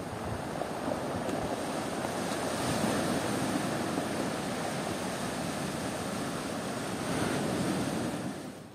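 Atlantic surf breaking and washing ashore as a continuous rushing noise, swelling about three seconds in and again near the end, then cutting off abruptly.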